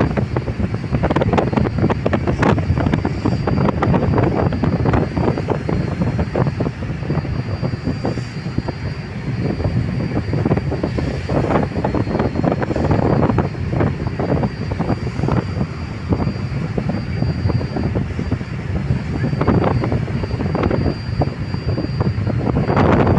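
Strong wind buffeting the microphone in irregular gusts over a steady low rumble, with a faint thin high whine.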